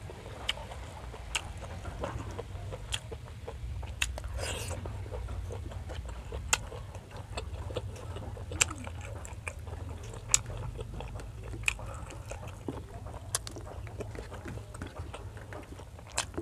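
Close-miked eating sounds: chewing and wet mouth clicks as grilled squid and rice are eaten by hand, with a sharp click every second or two over a steady low hum.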